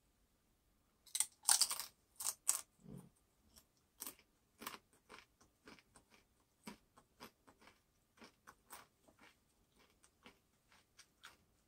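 Bites into a crisp tortilla chip dipped in salsa and chews it with the mouth. A few loud crunches come about a second in, then a long run of softer crunching chews, two or three a second, that slowly fade.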